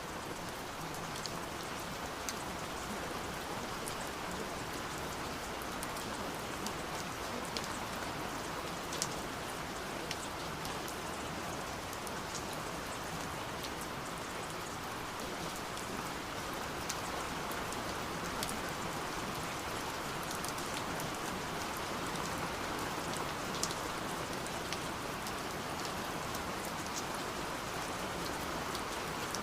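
Steady rain falling, with scattered individual drops ticking sharply over the even hiss.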